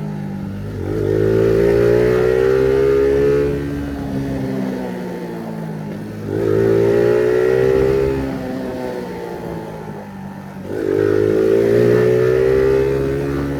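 Phoenix 50cc moped engine with an estralador popping exhaust, accelerating in three pulls. Each time its pitch climbs and it gets louder, then it drops back toward a lower note between pulls.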